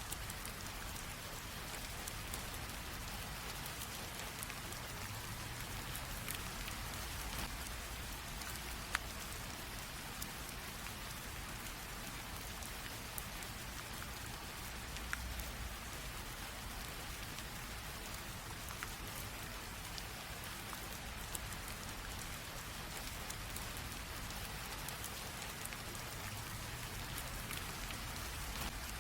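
Light rain drizzle: a steady soft patter of rain, with single drops now and then ticking out sharper against it.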